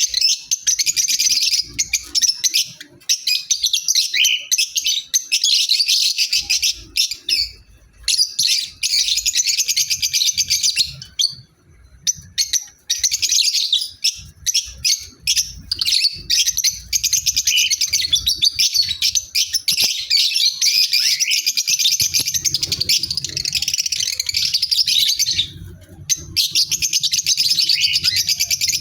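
Small pet parrots, called love birds, chirping and chattering in shrill, rapid calls, almost without a break except for short pauses.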